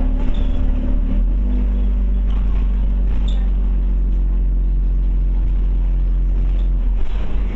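Scania OmniCity bus engine and drivetrain running, heard from inside the passenger cabin. The engine note steps down about a second in and then holds steady, loosening near the end.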